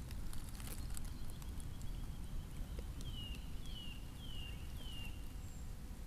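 A songbird gives four short whistled notes, each slurring downward, evenly spaced over about two seconds in the second half, over a low rumble. A few sharp clicks come in the first second.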